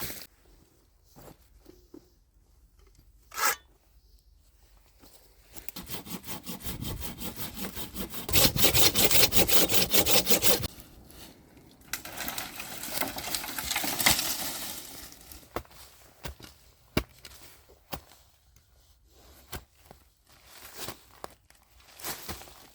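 Hand saw cutting dead wood in quick, even strokes for about five seconds near the middle, followed by a softer stretch of rasping. Light knocks and rustles come before and after.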